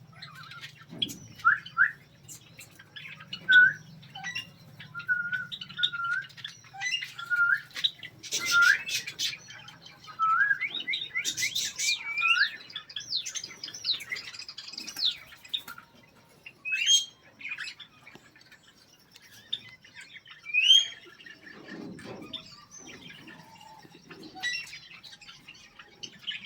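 Cockatiels calling: a string of short rising whistled chirps, broken by a few harsh screeching squawks about eight and twelve seconds in.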